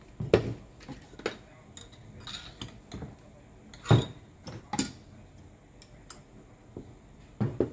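Irregular clicks and clinks of metal tool parts being handled and set down, with a few louder knocks about half a second in, around four to five seconds in, and near the end; the hammer is not running.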